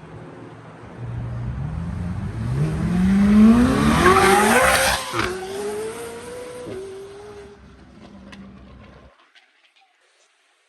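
A performance car's engine revving hard as it accelerates past, its note climbing steeply to a loud peak, then dropping twice at upshifts and fading as it pulls away.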